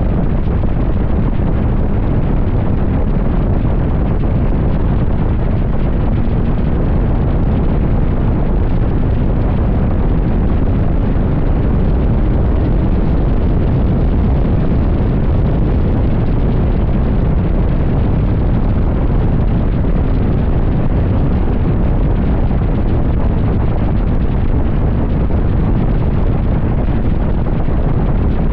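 Wind rushing over the microphone of a motorcycle at highway speed, a steady loud low rush with engine and road noise underneath.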